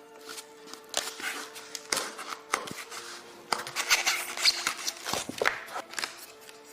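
Polystyrene foam board pieces handled and pressed together, giving a run of irregular scrapes, squeaks and clicks, over faint background music.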